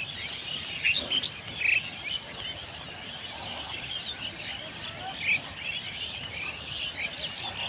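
Small birds chirping, many short, high calls overlapping throughout, a little louder in the first second or so.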